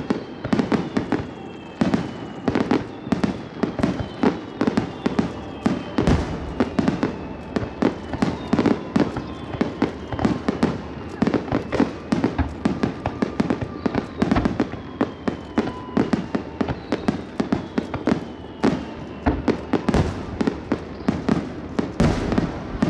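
Underwater fireworks bursting in rapid succession: a continuous barrage of sharp bangs and booms, several a second, with a few whistles falling in pitch over the top.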